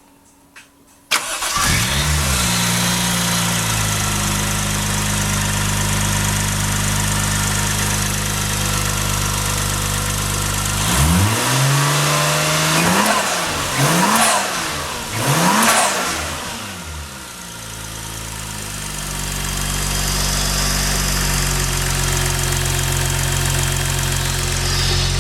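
Toyota 1JZ-GTE 2.5-litre twin-turbo straight-six starting about a second in and settling from a fast idle to a steady idle. About halfway through it is revved in several short blips, then drops back to idle.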